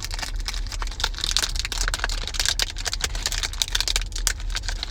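A pack of 1990 Leaf Series 2 baseball cards being opened and handled: dense, rapid papery clicks and rustles of wrapper and card stock, over a steady low hum.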